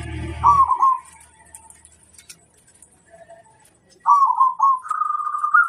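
Zebra dove (perkutut) cooing: a short coo about half a second in, then, from about four seconds in, a longer phrase of quick notes that steps up in pitch into a run of even, rapid pulses.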